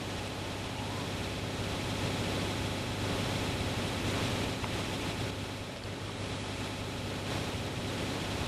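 Steady rushing noise with a constant low hum underneath, starting abruptly just before and holding evenly.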